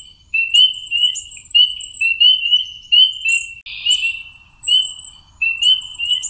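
Nature field recording of a bird singing, repeating short high chirping notes a couple of times a second. About four seconds in, playback cuts over to a second version of the same recording with a faint hiss underneath.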